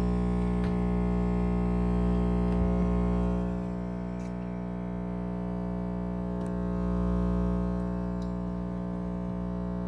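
2012 Pelonis Elite heat pump running with a loud, steady electrical hum and buzz during a defrost cycle, easing off about three and a half seconds in and swelling again near seven seconds. The owner calls it a malfunction, and says it doesn't sound that happy.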